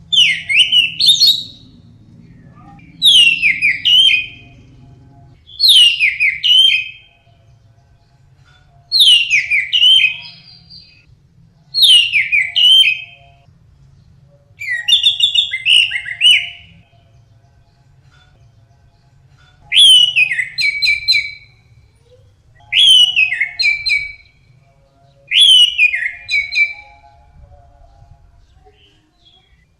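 Orange-headed thrush singing: nine short phrases of clear whistled notes that slide downward, each about a second long, repeated every three seconds or so, with a longer pause around the middle.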